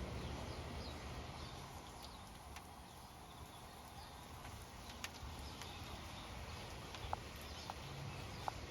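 Steady hiss of light rain falling, with a few scattered sharp drips or taps, one about five seconds in and two more near the end.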